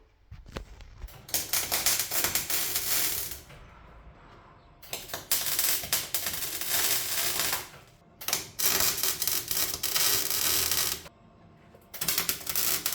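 MIG welder laying short welds on car body steel, a fast crackle in four bursts of two to three seconds each with brief pauses between them.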